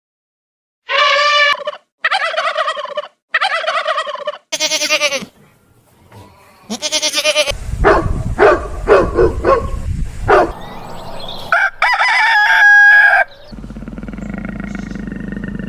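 Domestic fowl calling in a run of short separate clips: four short pitched calls one after another, then a run of fast pulsing calls, then a held pitched call, and near the end a lower, steady buzzy call.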